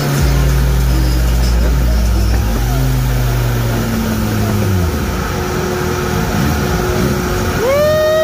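The supercharged inline-four engine of a tuned Kawasaki Z H2 SE, fitted with a ZX-10R muffler, running on a dyno at steady revs. The revs fall away about five seconds in. Near the end, a short tone rises and then holds for about a second.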